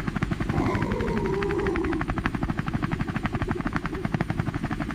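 Rapid, even chopping, about ten beats a second, with a tone that slides down and levels off in the first two seconds.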